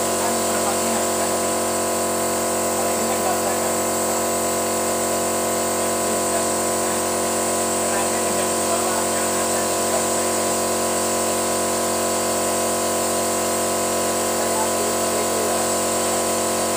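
A machine running steadily with a constant hum, holding the same level throughout.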